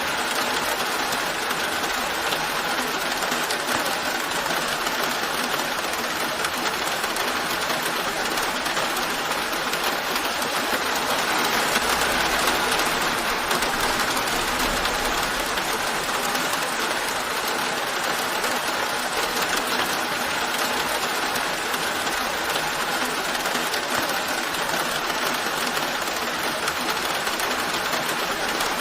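Steady rain falling, a continuous even hiss, with a slight swell and a faint low rumble about halfway through.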